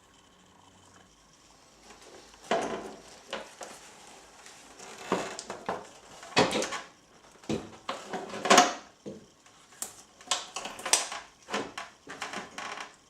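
Metal tools and parts clinking and knocking in an irregular series of about a dozen sharp hits, starting about two and a half seconds in, the loudest near the middle.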